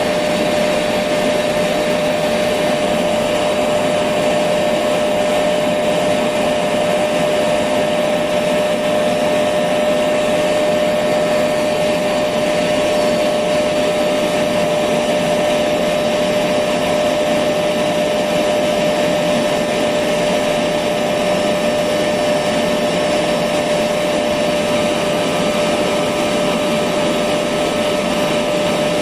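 Electric vacuum cleaner running steadily: an even rush of air with a constant motor tone, never changing in level.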